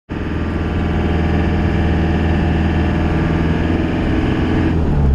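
Van engine and road noise while driving, a steady low drone that starts abruptly. The upper part drops away and the pitch shifts a little near the end.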